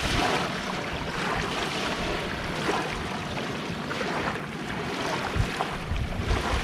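Calm sea waves washing onto the shore, with wind buffeting the microphone in low gusts now and then.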